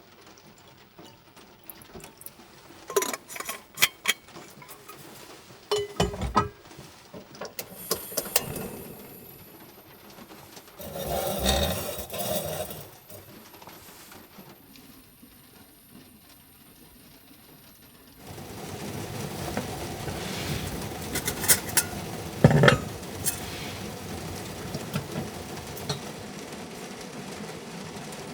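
Clinks and knocks of camp cookware and utensils being handled, with a louder rustling stretch in the middle; about two-thirds of the way through a steady hiss sets in under further knocks.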